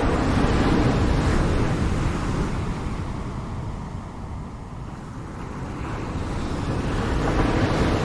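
Ocean waves breaking on a shore: a steady wash that swells as one wave comes in, eases off, and builds again with the next near the end.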